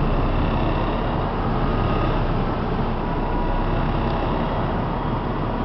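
City bus's diesel engine running steadily under load as the bus climbs a bridge ramp, a continuous low rumble.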